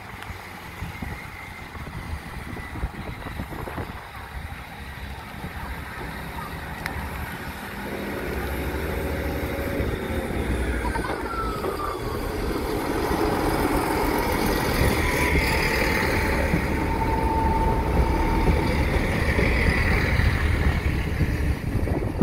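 Transport for Wales Class 158 diesel multiple unit approaching and running over a level crossing at close range. Its diesel engine rumble and wheel noise grow steadily louder, rising sharply from about eight seconds in and loudest near the end as the unit passes.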